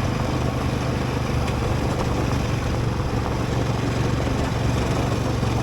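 Motorcycle engine running steadily while riding at an even speed, a constant low hum under a steady rush of noise.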